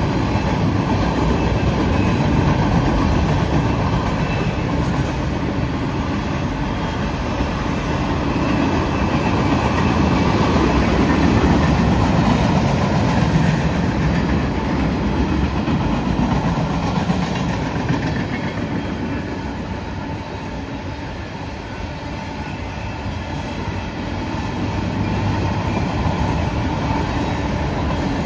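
Long freight train's cars rolling past on the rails: a steady rumble of steel wheels with clickety-clack over the rail joints, easing a little for a few seconds about two-thirds of the way through.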